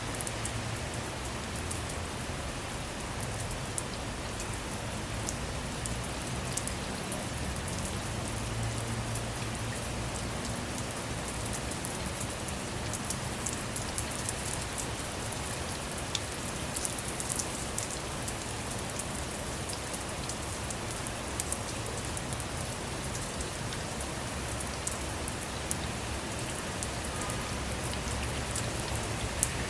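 Steady rain falling on a vehicle, with a dense even hiss and many individual drops ticking sharply on its surfaces, over a low rumble.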